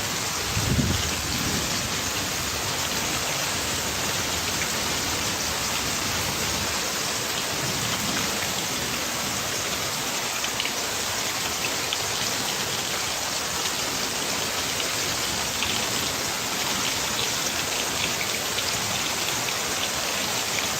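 Steady rain falling, with a brief low rumble about a second in, like distant thunder.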